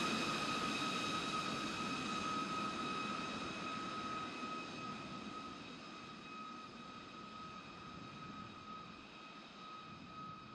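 Jet aircraft engines: a steady high whine over a rushing noise, fading away as the aircraft recedes.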